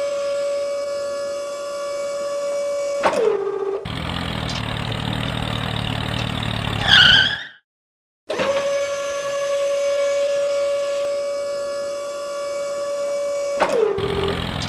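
A small electric motor running with a steady high whine, then dropping in pitch as it slows, followed by a few seconds of loud rough grinding noise. After a brief cut to silence, the same whine, drop and noise repeat.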